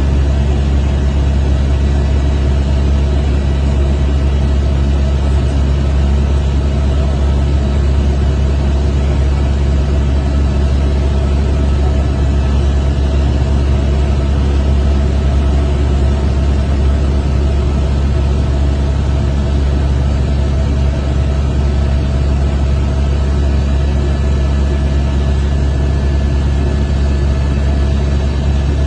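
Glacial lake outburst floodwater rushing, a loud steady low rumble.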